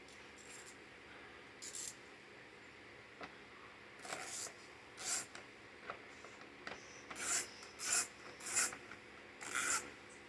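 A string of about seven short, hissy scraping and rubbing strokes at irregular intervals, from hands working the lawn mower's air filter housing open.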